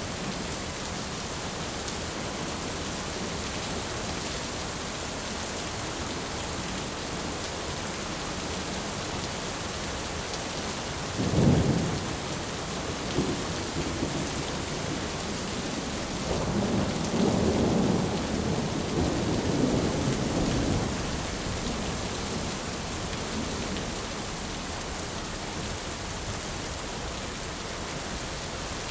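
Steady heavy rain drumming on a tin roof, with a sharp clap of thunder about a third of the way in and a longer rolling rumble of thunder a few seconds later.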